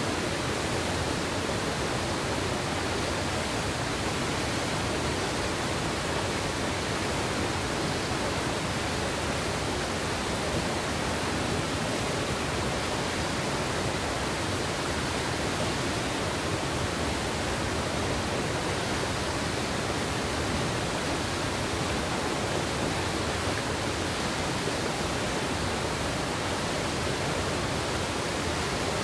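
Clear mountain river water rushing over rocks, a steady, unbroken rush.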